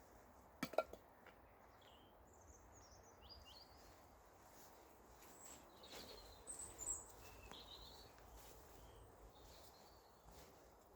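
Quiet open-air ambience with faint bird chirps scattered throughout, a sharp click or snap about a second in, and a few softer knocks just past the middle.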